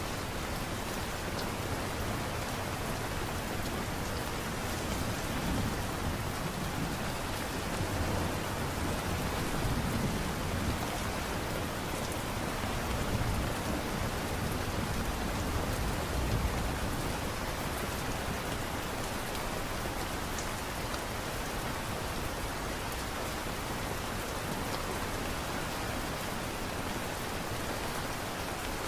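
Steady light rain falling, an even patter without pauses. Low rumbles swell up now and then in the middle stretch.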